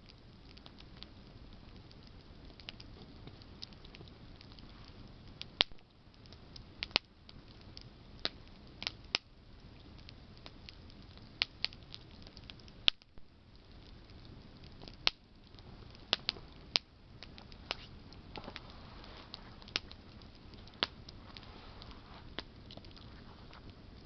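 Wood campfire of burning branches crackling: irregular sharp pops and snaps, a few much louder than the rest, over a steady low hiss.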